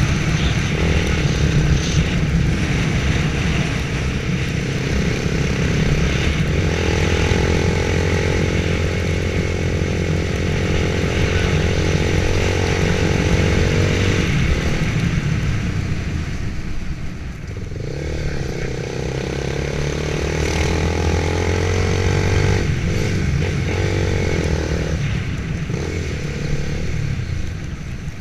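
Motorcycle engine running steadily under way, its pitch shifting with the throttle. It eases off and drops in pitch about seventeen seconds in, then picks up again.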